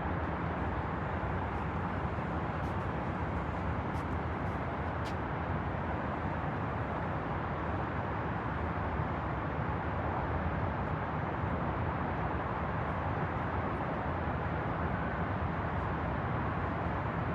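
Steady outdoor ambient noise with the rumble of city traffic, even in level throughout, with a few faint ticks about three to five seconds in.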